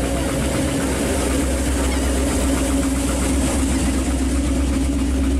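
1969 Camaro Z28 pro street car's V8 idling with a low, steady rumble as the car creeps slowly past.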